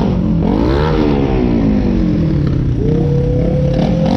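Car engine revved at a standstill: the pitch shoots up about half a second in and then falls slowly as the revs drop, with a second rev starting near the end. A steady higher tone sounds alongside through the second half.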